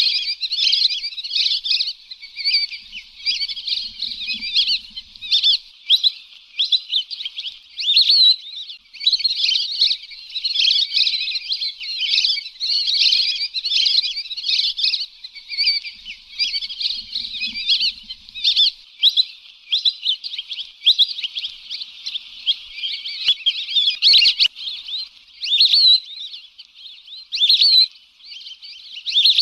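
Flock of lesser whistling ducks calling continuously: a dense, unbroken chatter of high, short whistled notes.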